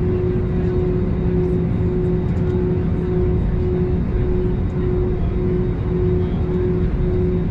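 Airbus A320neo's Pratt & Whitney PW1100G geared turbofan engines and rushing air heard inside the passenger cabin: a steady, loud roar with a droning hum that wavers about twice a second.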